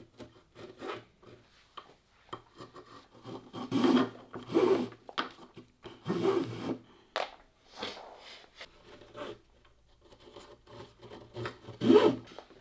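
Wood being rubbed by hand with an abrasive tool in irregular strokes, the heaviest strokes about four to five seconds in, around six seconds and near the end.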